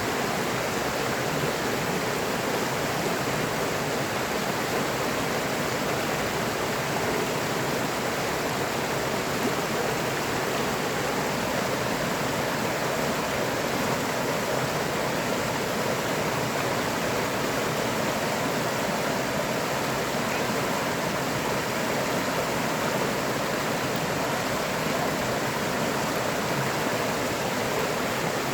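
River water flowing and rushing over stones, a steady even wash with no breaks.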